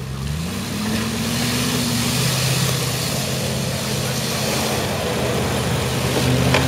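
Classic Range Rover's Rover V8 engine revving up in the first second, then held at high revs under load as the 4x4 climbs a steep muddy slope.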